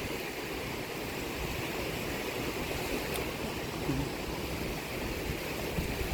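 Sea waves washing onto the shore, a steady rushing wash of noise.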